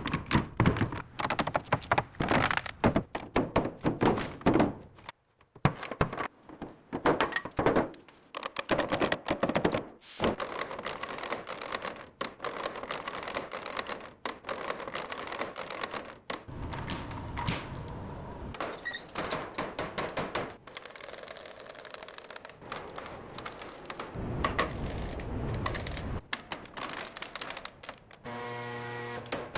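A run of sharp knocks, taps and clicks, like tools handling and striking parts, thick and fast for the first ten seconds and then a looser clatter. A short steady hum sounds near the end.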